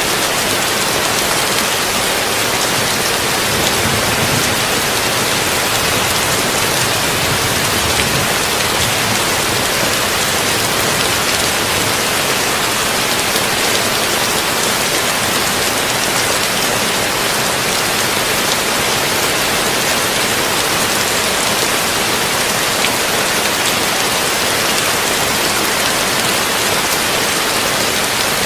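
Heavy rain drumming on a tin roof: a steady, dense hiss of drops with no let-up.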